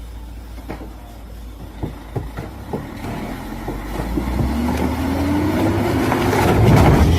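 Heavy vehicle rumbling, with a few sharp knocks in the first few seconds, then an engine note rising in pitch as the sound grows louder toward the end.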